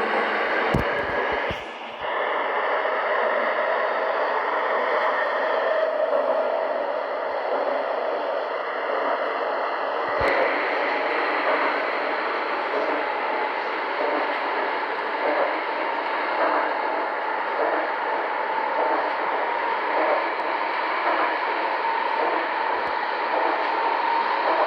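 Seoul Subway Line 2 train running between stations: steady wheel-and-rail running noise with a motor whine that slowly rises in pitch, and a few sharp knocks in the first two seconds and once about ten seconds in.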